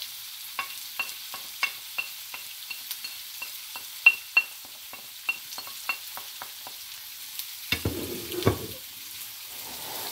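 Chicken, onion and sweet peppers frying in a non-stick pan with a steady sizzle, over a run of light ringing clicks, about three a second, as a wooden spatula scrapes spices off a ceramic plate into the pan. About eight seconds in comes a louder clatter, and the spatula starts stirring the pan.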